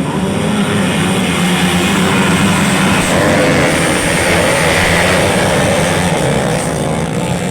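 Motocross dirt bike engines running in a race, a steady engine drone that swells a little around the middle.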